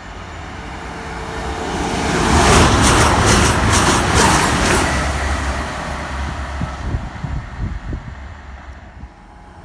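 Class 222 Meridian diesel multiple unit passing through the station: a rumble and rail noise that swells, peaks about three to four seconds in with a rapid clatter, then dies away.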